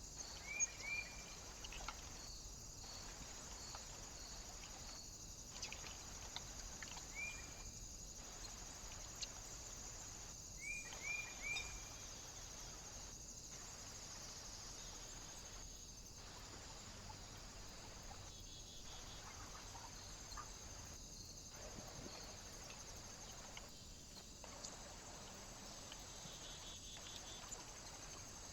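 Faint short, upswept chirps from a small bird: a pair about half a second in, a single one about 7 seconds in, and a run of three about 11 seconds in. A steady high hiss runs underneath.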